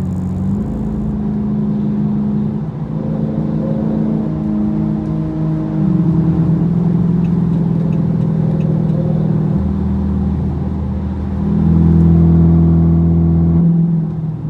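Car engine and road noise heard from inside the cabin while cruising on the interstate: a steady drone whose pitch holds for a few seconds and then shifts, growing louder about twelve seconds in.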